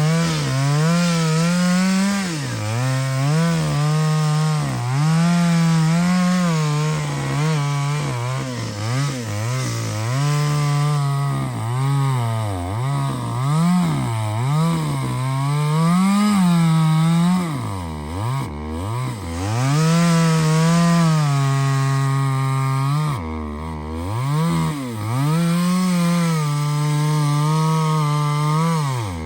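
Chainsaw cutting through a large hardwood trunk, its engine speed sagging and picking up again over and over as the chain loads up in the cut. Twice in the later part it drops almost to idle before revving back up.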